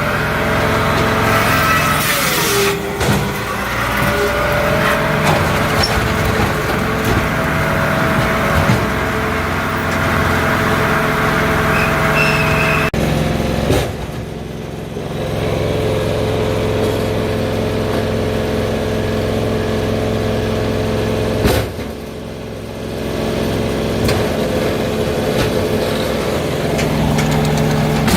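Firewood processor with a 44-horsepower diesel engine running steadily, a drone with a whine above it that dips in pitch once early on. Two sharp knocks, about halfway through and again about three-quarters of the way through, each followed by a few seconds of quieter running.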